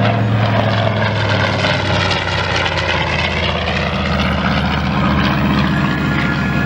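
Grumman TBM Avenger's Wright R-2600 radial engine and propeller running steadily as the plane passes by, the engine note dropping in pitch about two seconds in.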